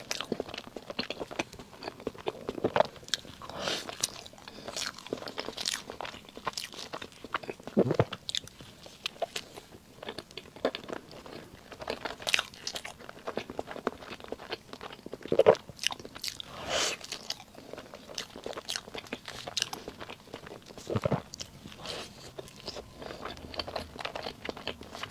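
Close-miked eating sounds: a person biting and chewing soft cream cake, with many short, sharp mouth clicks and smacks at irregular intervals.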